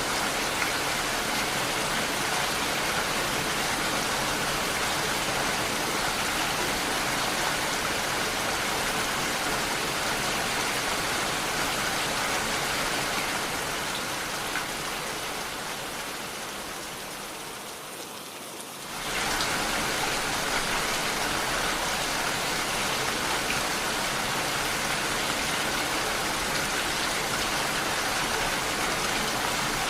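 Steady rainfall, a dense even hiss of drops. About halfway through it fades gradually quieter over several seconds, then comes back at full strength suddenly.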